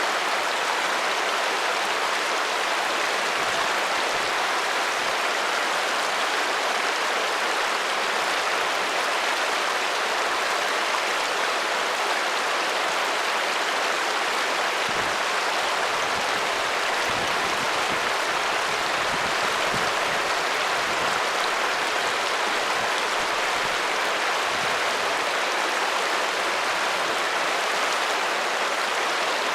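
Water running steadily in a stream, an even rushing hiss that does not change.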